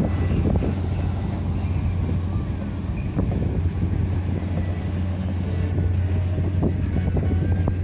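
Train running with a steady low rumble, with a few scattered knocks.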